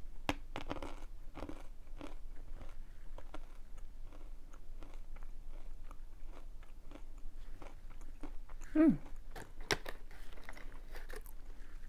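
Close-up crunching and chewing of sesame honey dry-roasted chickpeas, a steady run of short sharp crunches. A brief falling hum from the eater comes about nine seconds in.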